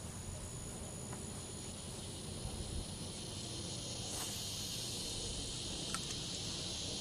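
A steady, high-pitched insect chorus that grows a little louder about four seconds in, with a faint click or two.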